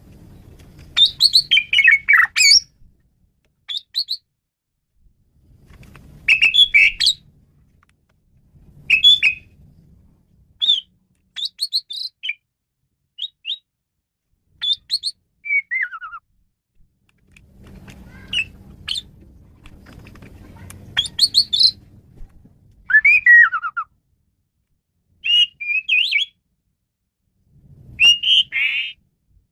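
Male Asian pied starling (jalak suren) singing a varied song: short bursts of whistles, chatters and harsh notes with pauses between them, a few notes sliding down in pitch.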